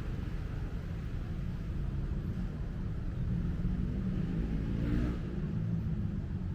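Low, steady rumble of road traffic, with a vehicle passing close by about five seconds in.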